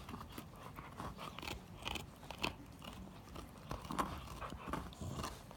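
Akita dog gnawing on a bone, with irregular crunches and cracks as its teeth work the bone.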